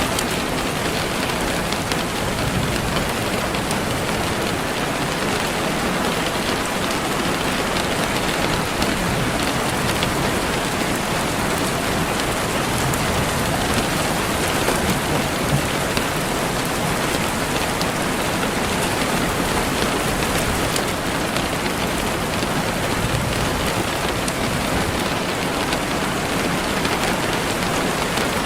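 Steady rain falling on surfaces, an even hiss dotted with faint individual drop ticks.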